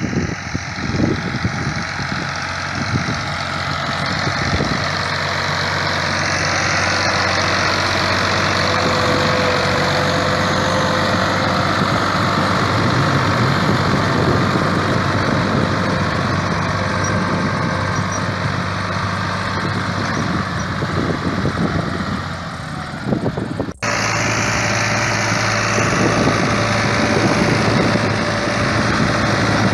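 New Holland Ghazi tractor's diesel engine running steadily. About three-quarters of the way through, the sound cuts off for an instant and picks up again.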